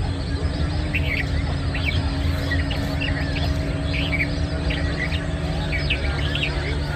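Birds chirping, short high calls repeating about once or twice a second, over a steady low hum.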